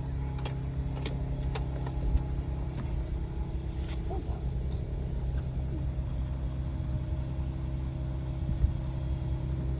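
Car running with a steady low hum, with scattered light clicks over it.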